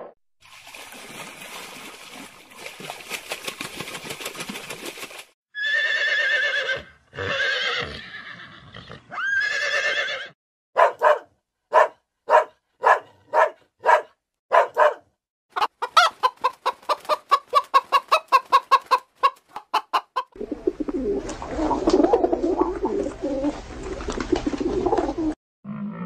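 A string of different animal calls cut one after another: a few drawn-out pitched calls, then a dog barking sharply about eight times, then a fast run of short calls and a noisier stretch.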